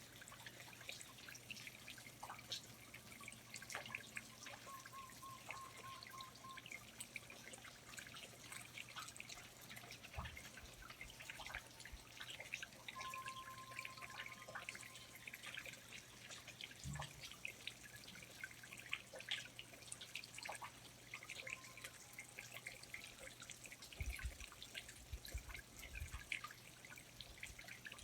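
Rainforest ambience of water dripping from foliage: a dense, uneven patter of small drips. Two faint, brief whistled bird notes come through, and a few soft low thumps sound near the middle and toward the end.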